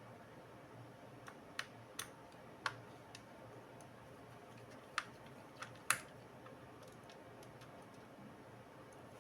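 Scattered sharp clicks and light taps of small hard parts being handled during laptop disassembly: about eight in all, irregularly spaced, over a faint steady background hum.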